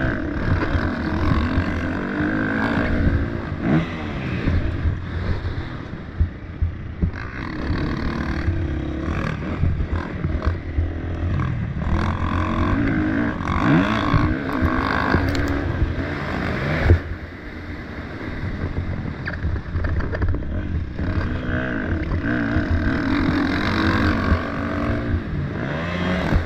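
Motocross bike engine revving up and down again and again as it is ridden around the track, with rattling from the bike over the terrain. A single sharp thump about 17 seconds in is the loudest moment.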